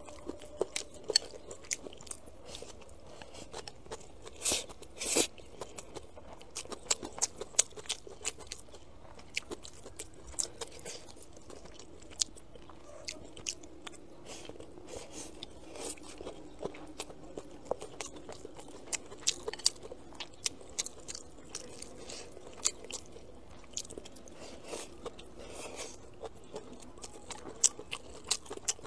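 Close-miked chewing and crunching of spicy stir-fried food, chicken feet and vegetables, heard as many irregular small crackles and wet smacks throughout.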